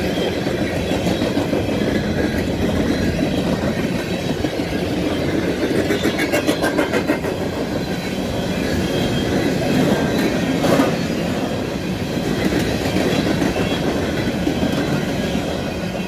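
Empty freight hopper cars rolling past, their steel wheels clattering over the rail joints with a steady rumble. A run of quick clicks comes about six seconds in, and a sharper knock near eleven seconds.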